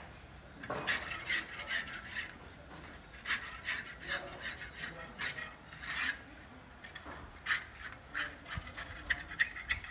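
Hand tool scraping over a hard, gritty surface in repeated uneven strokes, several to the second in bursts, like mortar or plaster being worked.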